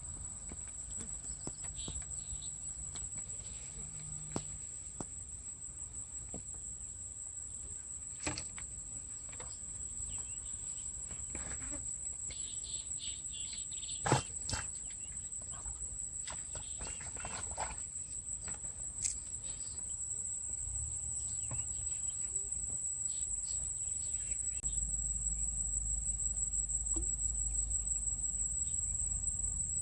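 Insects trilling: one steady, unbroken high-pitched tone. A few sharp clicks or knocks break in, the loudest about halfway through, and a low rumble builds near the end.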